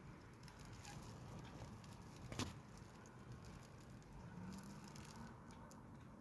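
Faint wind noise, a low uneven rumble, with scattered light crackles and one sharp click about two and a half seconds in.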